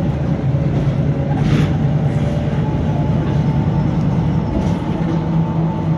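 VDL SB200 single-deck bus under way, giving a steady low groaning drone, with a brief hiss about one and a half seconds in.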